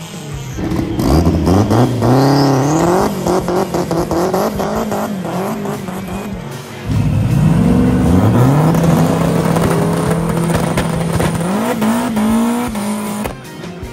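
Flat-plane-crank 400 cubic inch LS V8 in a Pontiac GTO drag car, revved in a series of short blips. It then rises and holds at steady high revs for several seconds before revving again and dropping off near the end.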